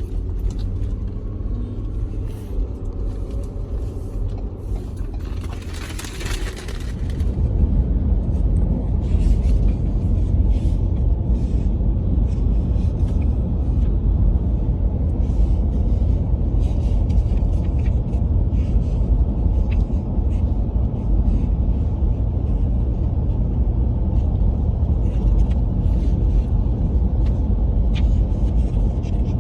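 Steady low rumble of a moving vehicle. A brief hiss comes about six seconds in, after which the rumble is louder.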